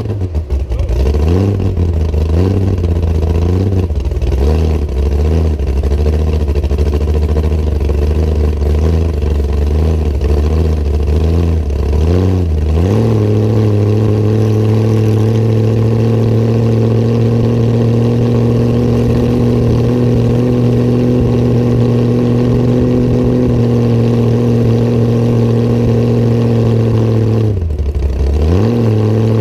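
Hot rod coupe's V8-style engine running loud through open zoomie headers, its revs rising and falling over and over for about the first dozen seconds, then held steady at cruise. Near the end the revs drop briefly and pick back up.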